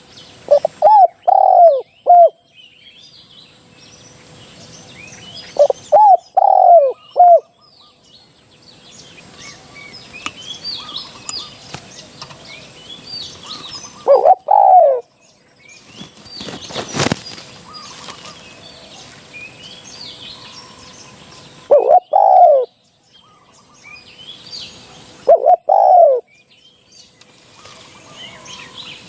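Spotted dove cooing, a lure call for decoying wild doves: five phrases of a few short, falling coo notes, several seconds apart. Small birds chirp faintly throughout, and there is a brief burst of noise about halfway through.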